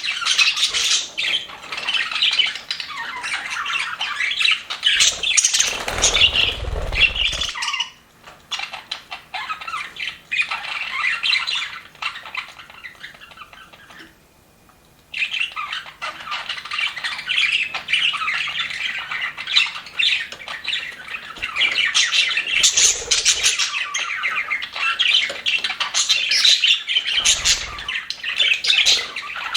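A flock of budgerigars chattering and warbling in a dense, fast stream of chirps. The chatter thins out about a third of the way in and falls nearly silent for a moment halfway through, then comes back at full strength. There are a couple of short low thumps.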